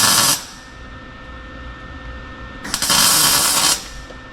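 Wire-feed welder tack-welding a 3-inch steel exhaust pipe: a burst of arc noise ends just after the start, and another lasts about a second near the middle.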